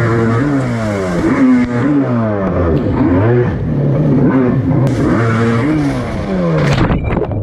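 Dirt bike engine revving hard, its pitch climbing and falling again and again as the rider accelerates and shifts on the track. The sound changes abruptly about five seconds in and again near the end.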